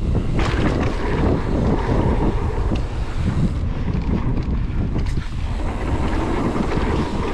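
Wind buffeting the microphone of a mountain bike's camera on a fast downhill ride, over the rumble and rattle of the bike rolling across a bumpy dirt trail.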